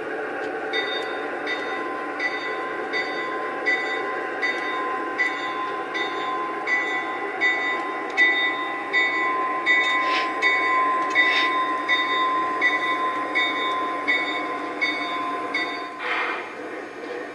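Two model diesel locomotives running along the track. There is a steady whine over a rolling rumble, a short repeating tick about one and a half times a second, and a few brief louder sounds in the second half.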